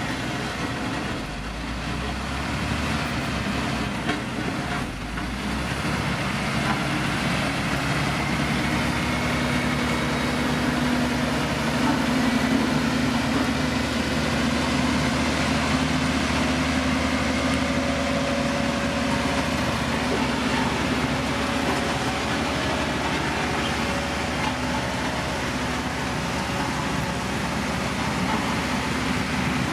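Heavy diesel road-construction machine running steadily under load, a continuous engine drone whose tone strengthens and rises slightly about a third of the way in.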